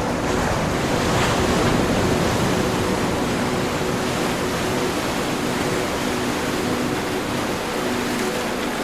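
Ocean waves washing on a shore in a continuous, loud surf. One swell builds and breaks about a second in. Soft, held musical notes sit underneath.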